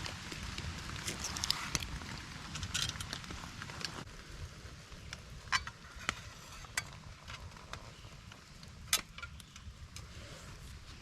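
Steady rain-like hiss over a low wind rumble, with a few sharp clicks and taps from handling gear about halfway through and again near the end.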